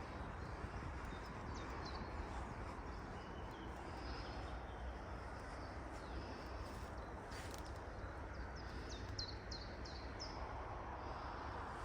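Small forest birds chirping: short, sharp, high notes that drop in pitch, scattered through and coming in a quick run of several about nine seconds in, over a steady background hiss and rumble.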